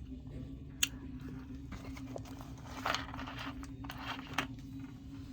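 Eating sounds: chewing with wet mouth clicks and smacks, a sharp click about a second in and louder smacks near three and four seconds in, over a steady low hum.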